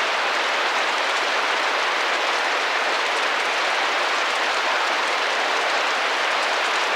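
Steady rain pattering against a window pane, a dense, even hiss of drops with no letup.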